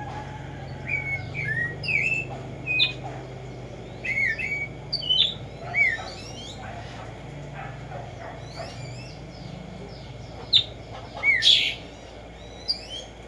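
Black-striped sparrow (tumba yegua) singing: short chirps and slurred whistled notes in several bursts, with a steady low hum underneath.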